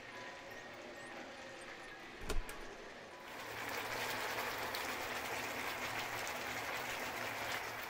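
Marinated chicken frying in a pan in its own juices, no water added, with a steady sizzle. A single sharp knock comes about two seconds in, then the sizzle turns louder and denser from about three seconds in.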